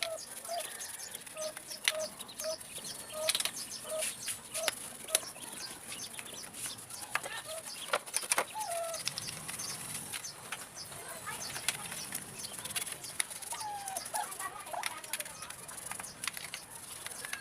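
Birds calling in the background: a run of short repeated notes about twice a second near the start, and a few gliding calls later. Scattered sharp clicks and scrapes are heard throughout, the loudest about two seconds in and around eight seconds in.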